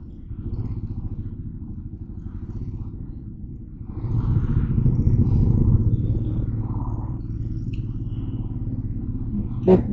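Motorcycle engine running at low road speed with a pulsing exhaust note. It gets louder about four seconds in as the throttle is opened, then eases back to a steady run.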